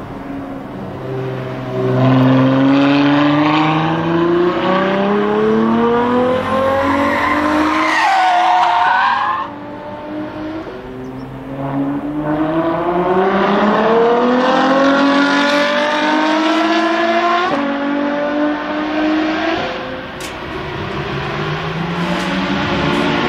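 Ferrari F12 Berlinetta's 6.3-litre V12 accelerating hard, revs climbing through the gears: once from about two seconds in and again from about twelve seconds in. A short tyre squeal comes around eight seconds in, and near the end another car's engine starts climbing.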